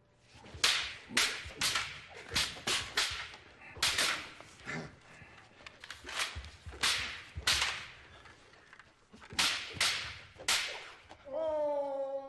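About a dozen short, sharp swishing bursts at an uneven pace, some close together, some a second or more apart. Music with falling tones comes in near the end.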